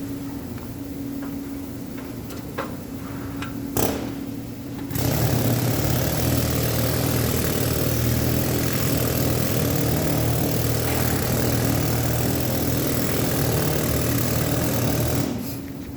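Arc welding: after a few seconds of steady machine hum with a few light clicks, the arc catches about five seconds in and runs as a steady crackling hiss over a low buzz for about ten seconds, then stops abruptly near the end.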